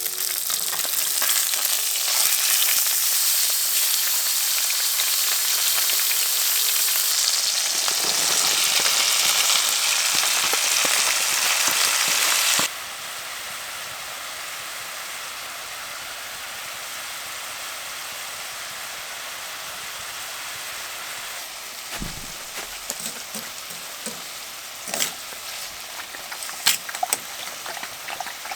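Ribeye steak frying in olive oil in a hot pan, a loud steady sizzle that drops abruptly to a quieter sizzle about thirteen seconds in. A few sharp clicks come near the end.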